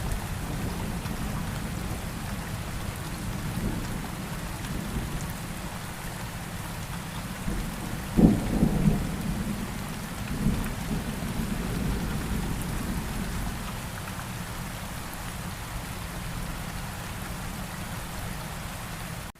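Steady rain with a low rolling rumble of thunder, swelling louder about eight seconds in and again a couple of seconds later.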